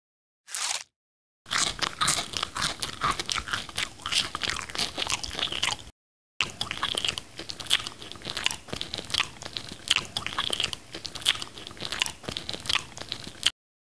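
Close-miked chewing of firm mango slices: a short bite about half a second in, then steady crisp, wet crunching with many small clicks, cutting out briefly about six seconds in.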